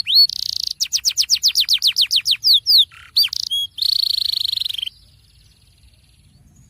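Domestic canary singing a loud rolling song: a fast run of repeated descending whistled notes and buzzy trills, ending abruptly about five seconds in.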